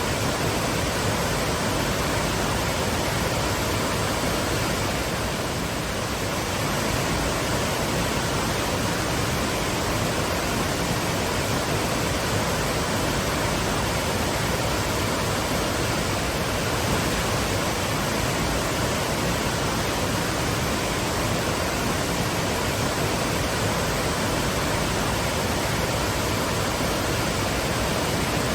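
Steady rush of a waterfall: water falling and pouring without a break.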